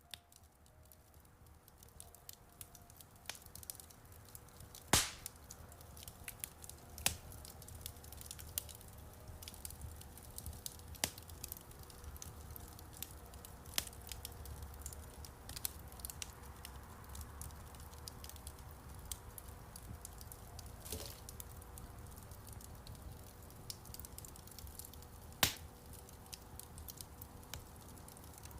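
Wood fire crackling in a fireplace: irregular snaps and pops over a low rumble of burning, the sharpest pops about five seconds in and again near the end.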